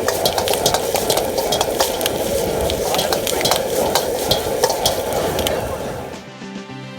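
Chow mein frying in a hot wok, sizzling steadily while it is stirred, with frequent sharp clicks of the utensil against the wok. The sizzle fades out near the end as music comes in.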